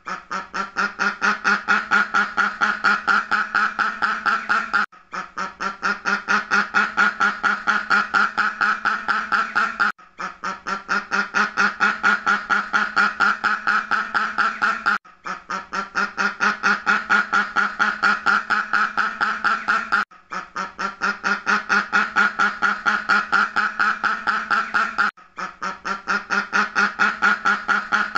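Duck quacking in a fast, even run of quacks. Each run lasts about five seconds, then stops briefly and starts again, as a looped recording does.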